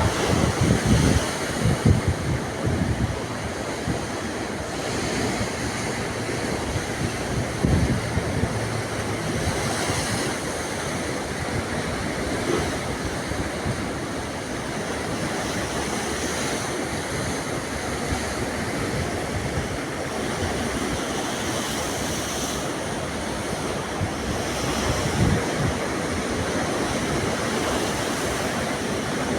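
Sea waves washing ashore in a steady rush, with wind buffeting the microphone in low gusts near the start, about eight seconds in, and again near the end.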